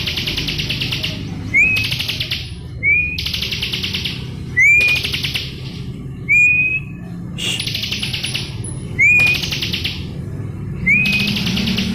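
Bar-winged prinia (ciblek) singing a repeated phrase: a short rising whistle followed by a rapid rattling trill. The phrase comes about every one and a half seconds, seven times.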